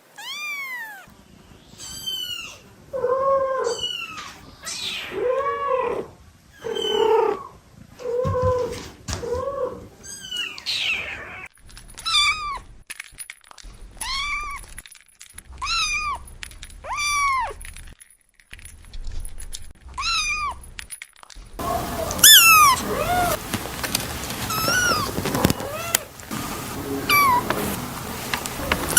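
Kitten meowing over and over, short arching calls coming about one a second. About two-thirds of the way through the background turns noisier and the meows become higher and thinner.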